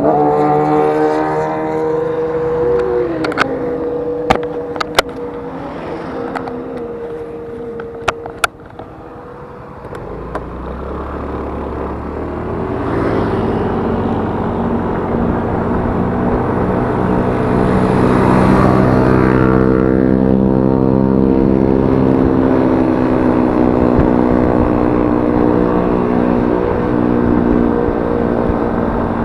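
Yamaha Mio S 125 scooter's single-cylinder engine heard from the rider's chest: it winds down and runs low for the first ten seconds, with a few sharp clicks, then picks up, climbing to a steady higher cruise with wind rush on top.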